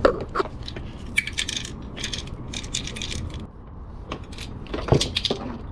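Small metal tool clicking, clinking and scraping against metal while working a small piece out of a freshly installed Heli-Coil thread insert, with a sharper knock about five seconds in.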